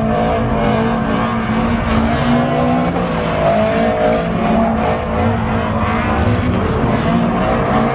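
Car engine held at high revs, its pitch wavering up and down, while the spinning rear tyres squeal in a burnout or donut.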